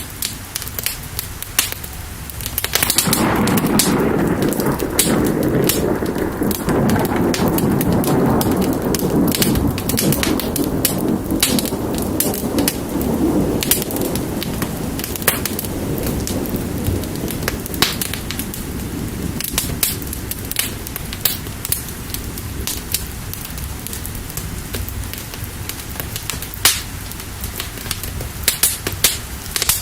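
Steady rain with a wood fire crackling throughout. About three seconds in, a long, low roll of thunder sets in and slowly fades away.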